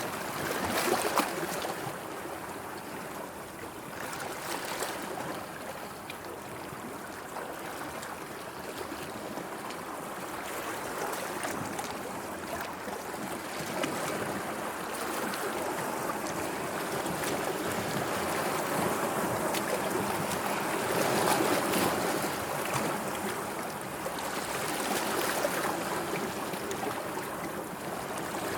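Sea waves washing in, a continuous rush of water that swells and eases every few seconds, with a few sharp splashes about a second in.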